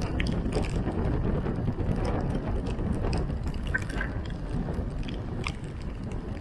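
Tropical-storm wind and rain: a steady low rumble of wind with scattered drips and splashes of water.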